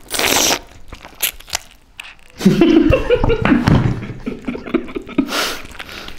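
A man biting into and chewing a piece of chicken curry, close-miked right at his mouth: wet chewing and biting with scattered clicks, and two loud noisy bursts, one at the start and one about five seconds in.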